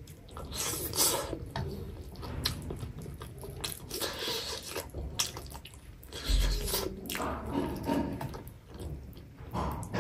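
Close-miked wet chewing and lip-smacking as a piece of curried chicken on the bone is gnawed and eaten by hand, in irregular moist clicks and smacks, with a dull low bump about six seconds in.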